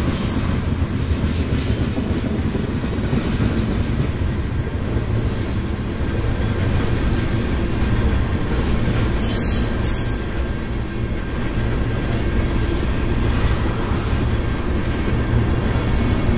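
Loaded tank cars of a freight train rolling past: a steady low rumble of steel wheels on rail, with a faint thin squeal from the wheels running underneath.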